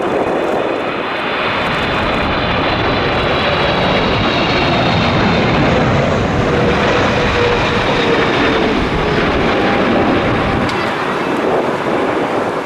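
Boeing 777-300 jet airliner on final approach passing low by, its engines making a steady loud rush with a high whining tone, easing off near the end.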